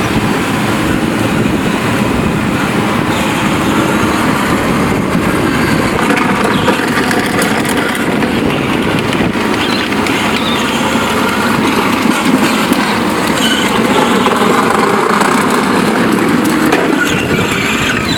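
ATV running, a steady loud mechanical noise with no break.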